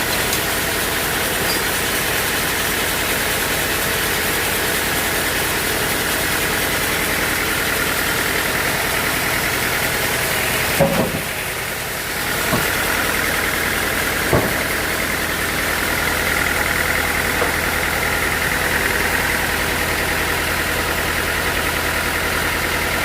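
Sawmill machinery running steadily with an engine-like hum. Near the middle the noise briefly drops and a few sharp knocks sound.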